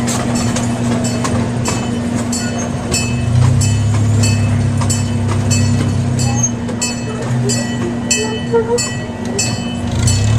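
Ride train running on its track, its wheels clicking over the rails about three times a second over a steady hum and a low rumble that swells in the middle.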